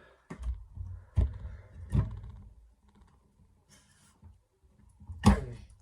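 Objects being handled and set down on a hard surface: a few knocks with low rumbling in the first two seconds, then a quieter stretch and one sharp, louder click near the end.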